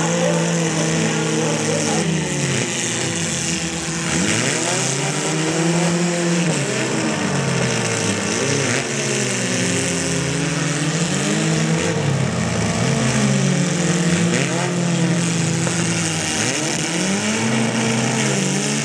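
Several small-car engines revving up and down and overlapping as the demolition derby mini cars push and ram against each other, the pitch rising and falling every second or two.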